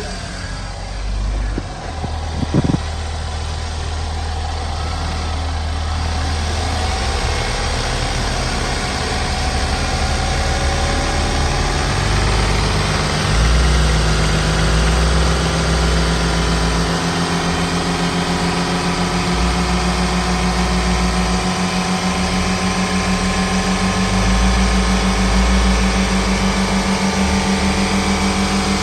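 2011 GMC Terrain's 2.4-litre four-cylinder engine running at a steady idle during a run test. A couple of sharp knocks sound about two and a half seconds in.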